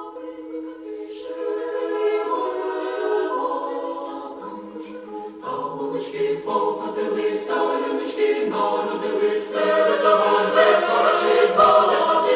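Background music: a choir singing a cappella in held chords, growing fuller and louder in the second half.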